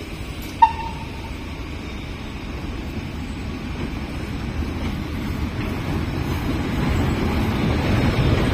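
Train hauled by a vintage FS E.626 electric locomotive approaching along a station platform and passing close by, a low rumble that grows steadily louder. Just over half a second in, a brief sharp high tone sounds, the loudest moment.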